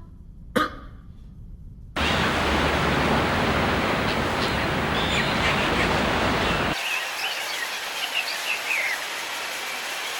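A steady rushing noise starts suddenly about two seconds in and breaks off abruptly near the seventh second, giving way to a quieter outdoor background with small birds chirping.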